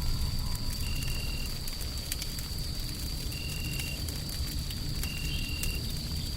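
Wood fire crackling: scattered sharp pops over a steady low rumble. A thin steady high tone runs throughout, and a short high beep-like tone repeats about every two seconds.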